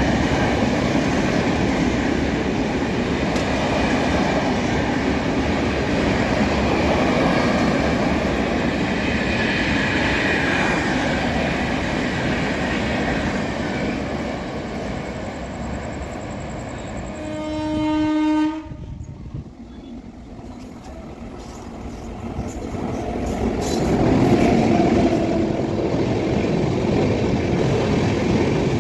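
An Indian Railways passenger train running past, wheels and coaches rumbling and clattering, with one horn blast of about a second and a half a little past the middle. The noise then drops off sharply and builds up again as the train noise returns.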